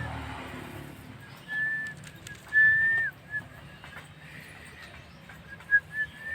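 Javan myna (jalak kebo) giving clear whistles at one steady pitch. There are two long notes in the first half, the second ending in a short downward slur, then a few quick short whistles near the end.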